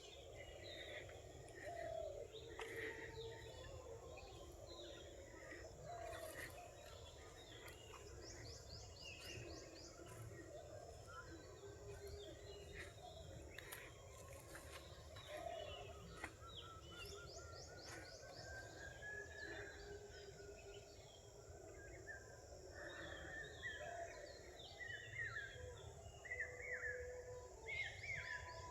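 Several wild birds calling and singing together at dawn in forest, a dense mix of short chirps and whistles. A rapid high trill sounds twice, and a slow rising whistle comes near the middle.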